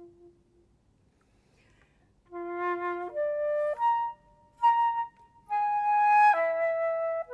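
Flute playing: a held note dies away, a short pause follows, and then a phrase of distinct notes resumes about two seconds in, moving up and down in pitch.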